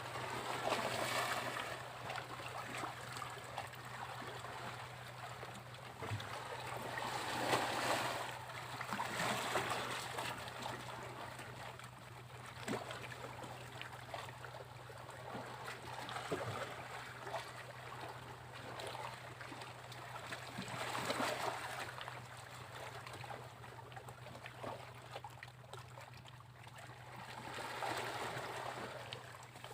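Sea waves breaking and washing up a beach, coming in four swells of rushing hiss spread several seconds apart.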